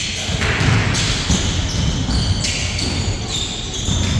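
Basketball game play: the ball bouncing on the court, with many short high squeaks, typical of sneakers on the floor.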